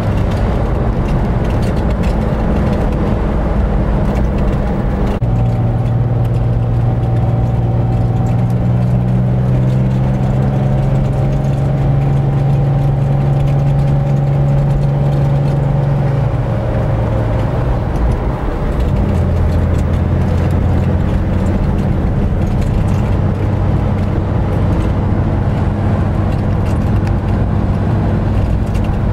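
Air-cooled flat-six engine of a 1965 Corvair 500 with dual exhaust, running under way. The engine note steps up about five seconds in and climbs slowly. It drops back lower a few seconds past the middle and then holds steady.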